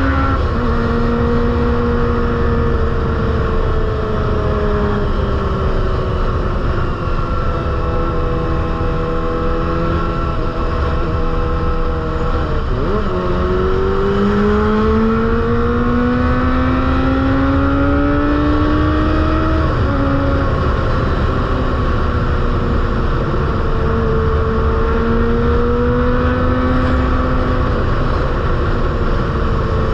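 Kawasaki ZX-25R's 249 cc inline-four engine running at high revs through an aftermarket Proliner exhaust. The pitch sags slowly, dips sharply about 13 seconds in, climbs steadily for several seconds, then drops suddenly at about 20 seconds, as at an upshift, and wavers after that.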